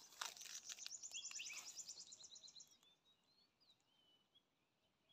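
Wild birds calling: a fast, high trill that steps down in pitch over the first two and a half seconds, then scattered faint chirps. A few clicks near the start.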